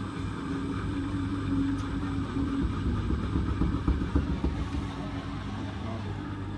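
Hotpoint WT761 Ultima washing machine running: a steady motor hum with a held tone that fades about halfway through, and an uneven, louder rumble from the drum in the middle.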